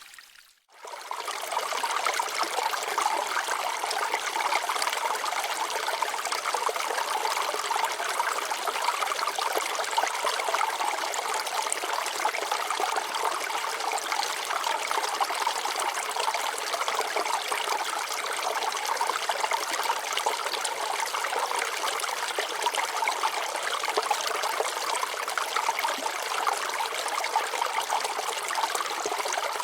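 Water flowing and trickling over rocks in a stream, a steady splashing rush. It drops out briefly just after the start, then resumes.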